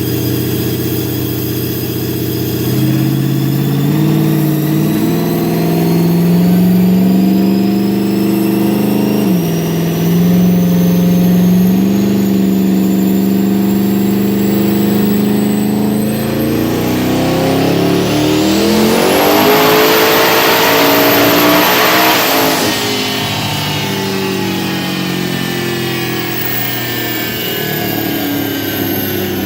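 Twin-turbocharged Ford Coyote V8 running on a dyno. Its pitch climbs in steps, then rises sharply in a full-throttle pull with a climbing turbo whine. A little over two-thirds through, the whine cuts off and the engine winds down.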